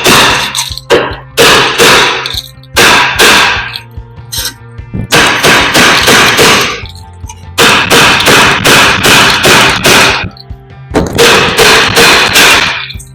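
Loud bursts of metal-on-metal hammering and scraping on a rusty van front brake hub, some short strikes and some runs lasting a couple of seconds, with metal ringing in the gaps.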